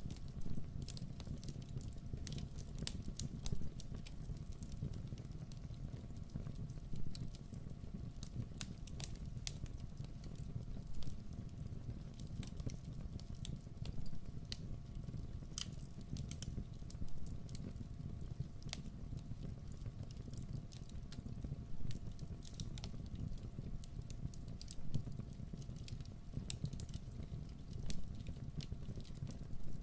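Wood fire in a fireplace crackling, with many small sharp pops and snaps over a low steady rumble of the flames. Slightly louder pops come every three to four seconds.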